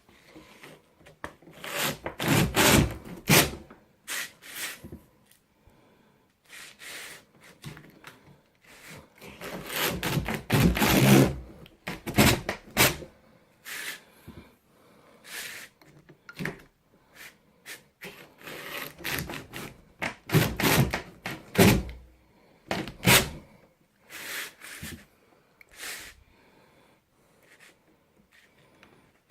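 The bottom edge of a door is being pushed back and forth over a sheet of 80-grit cloth-backed sandpaper held under it, scraping across the abrasive in repeated strokes of one to two seconds with short pauses between. The door is being sanded down where it rubs on the floor.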